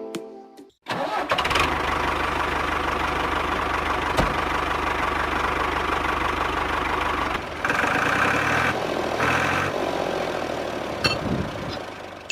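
A motor starting abruptly about a second in and running steadily, with a constant low hum; its sound changes between about seven and ten seconds in.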